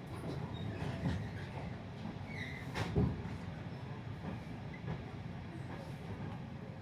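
Railway carriage of a train hauled by a class 55 diesel locomotive: a steady low rumble with a few knocks and clicks, the loudest knock about three seconds in.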